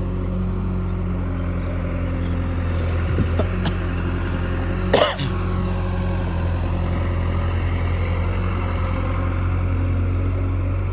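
Heavy diesel engine running steadily at low revs, with one short sharp knock about five seconds in.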